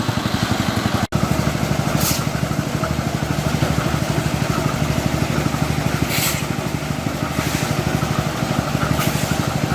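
An engine running steadily with an even, rapid pulse, broken by a brief dropout about a second in, with short hissing bursts three times.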